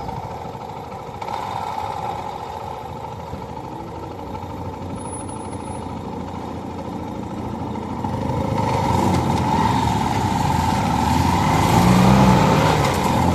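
Motorcycle running on the road, its engine mixed with steady road and wind noise, growing louder over the second half.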